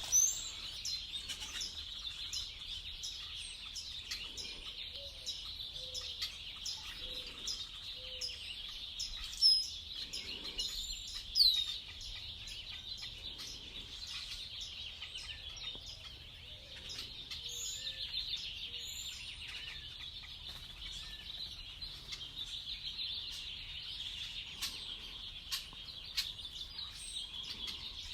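Several birds chirping and calling over a steady high-pitched hiss. A run of short low calls comes a few seconds in, and two loud, sharp falling whistles come near the middle.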